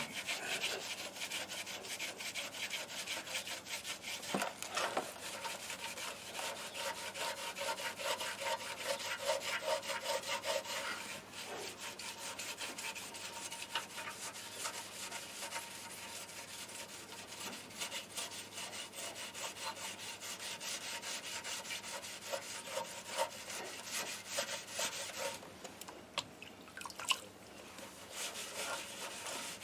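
Hand scrubbing with an abrasive: quick, steady back-and-forth rubbing strokes, easing off briefly near the end.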